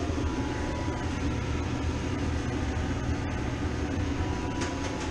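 Steady drone of running refrigeration machinery, a low rumble under an even hiss with no clear rhythm.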